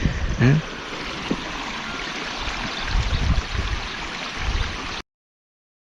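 Water running in a small stream channel, a steady rushing hiss, with low rumbles underneath. A brief voice sound just under a second in; the sound cuts off suddenly about five seconds in.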